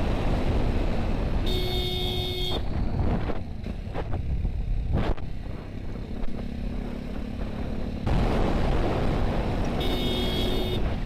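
A vehicle horn honks twice, each blast about a second long, once near the start and once near the end. Steady wind and road rumble run underneath.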